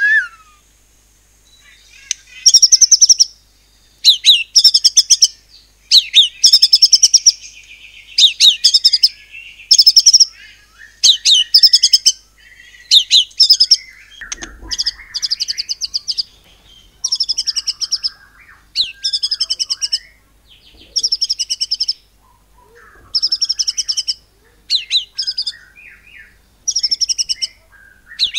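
White-rumped shama (murai batu) singing in rapid-fire 'nembak' bursts: short, loud, high-pitched volleys of very fast repeated notes, one about every second and a half, with softer notes between the volleys.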